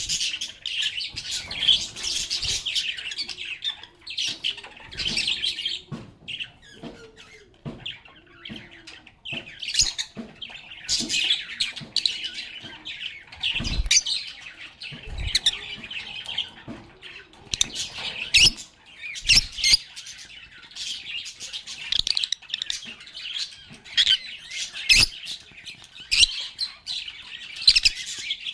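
Lovebirds chattering together in a dense, continuous stream of rapid high chirps and squeaks, with a few dull knocks in the middle.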